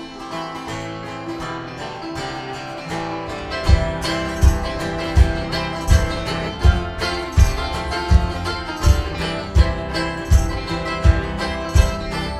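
Live acoustic band playing an instrumental passage: strummed guitar and other plucked strings, joined about three and a half seconds in by a steady low beat, roughly one and a half beats a second.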